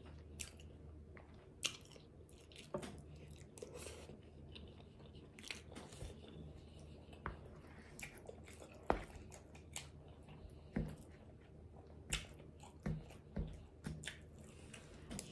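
A person chewing a burrito bowl close to the microphone, with scattered short sharp clicks as a fork scrapes and taps in the bowl.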